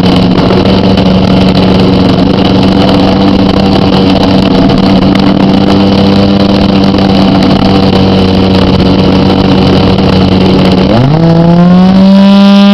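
RC Extra 300's .46 glow engine running steadily at high revs. About eleven seconds in, its pitch drops sharply, then climbs back up and settles slightly higher.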